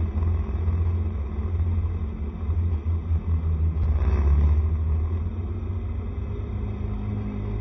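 Honda SCR110 scooter under way: a steady low rumble of its small engine and the ride, easing a little in the last couple of seconds.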